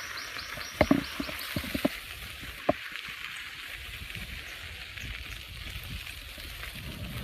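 Bicycle rolling away on a crushed-stone trail: a steady hiss of tyres and wind, with a few sharp knocks in the first three seconds. A brief rapid trill of high notes sounds over it at the start.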